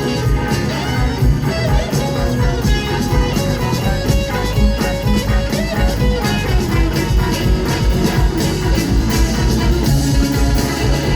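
Live blues band playing an instrumental passage: electric guitar lead over bass and drums, with a steady beat.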